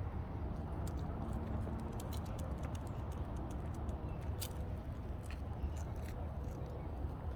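Footsteps crunching and crackling irregularly on dry ground while walking, over a steady low rumble.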